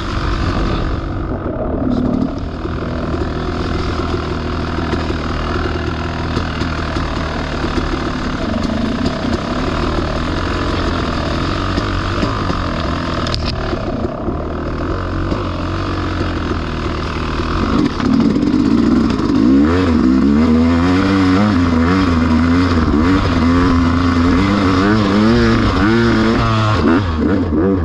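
Dirt-bike engine pulling under load up a slippery climb. About two-thirds of the way through it grows louder and its pitch rises and falls again and again as the throttle is worked.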